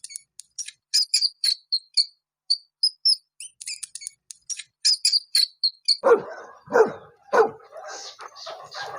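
Many short, high-pitched chirps, several a second, for about six seconds. Then a dog barks or yelps three times, followed by quicker, lower yapping.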